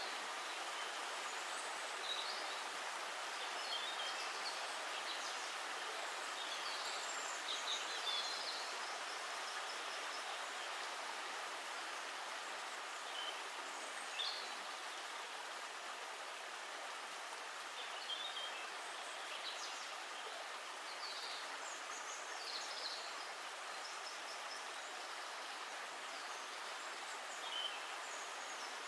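Steady, even water noise, like a stream running or rain falling, with short high chirps scattered through it, in clusters near the start and again past the middle.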